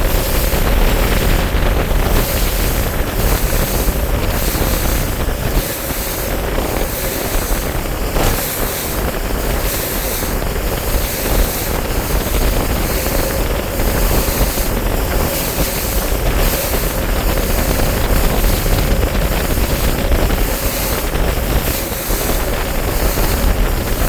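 Bass boat running on the water: a steady outboard motor tone under rushing water, with heavy wind buffeting the microphone.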